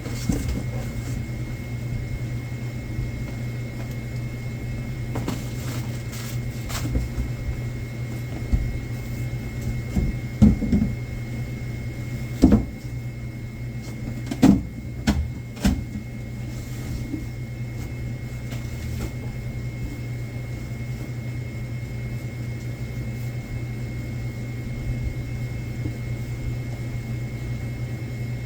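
Goods and boxes being handled during stock sorting: a few sharp knocks and clatters come about ten to sixteen seconds in. Underneath runs a steady low machine hum with a thin high tone.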